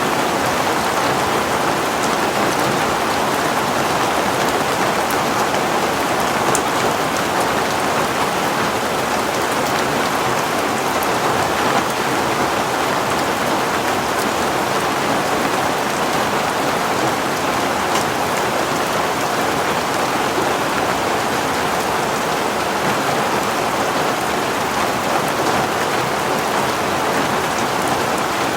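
Heavy rain falling steadily on a surface, an even wash of sound with faint scattered drop ticks.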